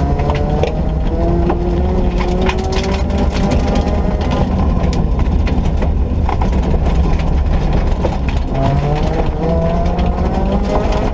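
Ford Ka rally car being driven hard: the engine's pitch climbs under load and drops at gear changes near the start and again after about eight seconds. Underneath is a steady heavy rumble, with many sharp knocks and rattles.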